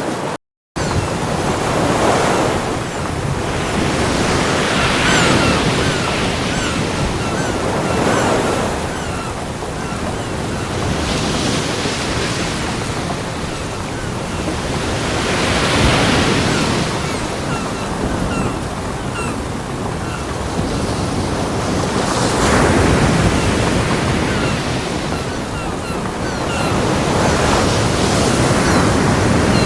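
Ocean waves breaking on a beach: a continuous wash of surf that swells and falls back every few seconds. There is a brief dropout to silence just after the start.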